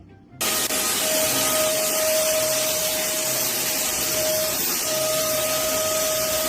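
A machine running loud and steady: a strong hiss with a steady whine on top, starting suddenly about half a second in, the whine dropping out briefly past the middle.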